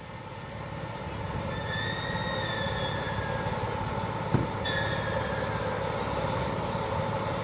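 Heavy-haul road transport vehicle on a multi-wheeled trailer moving slowly, giving a steady rumble and noise. A short high squeal comes about two seconds in and again about five seconds in, with a single knock between them.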